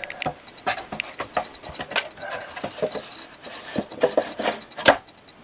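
Light wooden model-aircraft parts being handled and pressed into place: irregular small clicks, taps and rubbing, with one sharper knock near the end.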